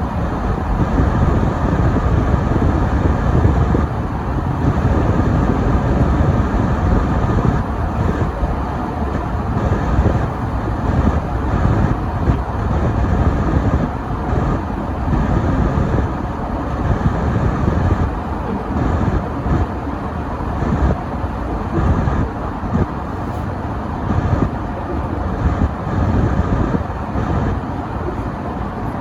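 A car driving on a snow-covered road: a steady low rumble of engine and tyre noise that swells and eases slightly.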